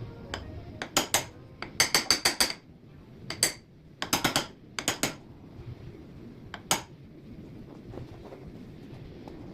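A string of sharp metallic clinks and taps from small tools or metal parts being handled and set down. There is a quick run of about six taps about two seconds in, then scattered clinks, with the last one near the end of the busy stretch.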